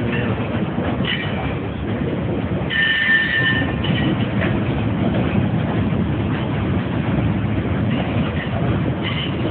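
Freight train cars rolling past at close range: a steady, heavy rumble and clatter of steel wheels on the rails. A brief high-pitched wheel squeal comes about three seconds in.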